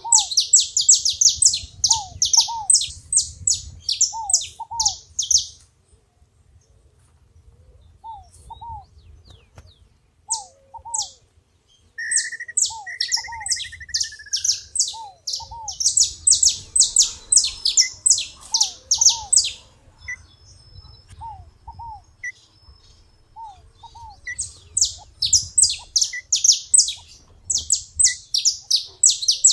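Saffron finch (canário-da-terra) singing in bursts of rapid, high chirps several seconds long with short pauses between. Underneath, another bird gives low paired call notes, repeating about every second and a half.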